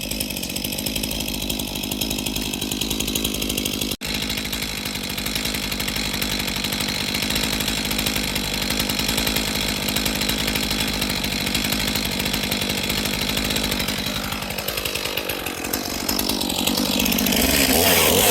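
Chainsaw engine running steadily, with a brief break about four seconds in; near the end its pitch shifts and it grows louder.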